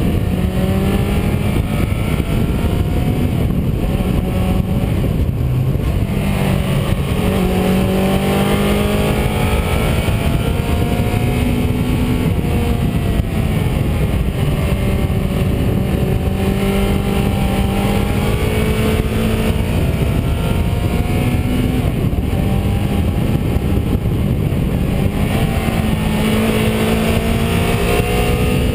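Car engine pulling along a winding road, its pitch climbing and then dropping back several times as it accelerates, shifts gear or lifts off for bends. A steady rush of road and wind noise runs underneath.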